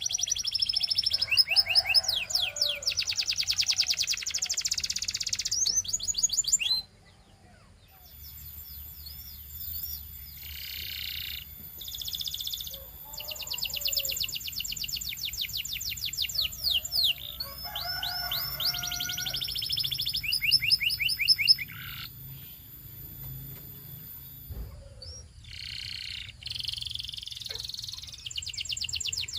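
Domestic canary singing: fast series of rising whistled notes and rolling trills in phrases with short pauses between them. The song stops briefly about seven seconds in, and a faint steady high-pitched whine runs behind it through the middle stretch.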